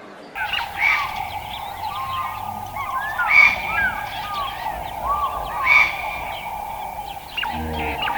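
Many birds chirping and calling together, with one louder call repeating about every two and a half seconds. A brief low call comes near the end.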